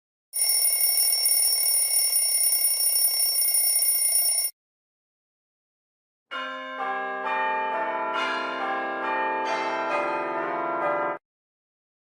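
Two bell sound effects. First a steady, continuous metallic ringing for about four seconds. After a pause of about two seconds, a run of bell tones is struck one after another and each is left ringing, building for about five seconds before cutting off.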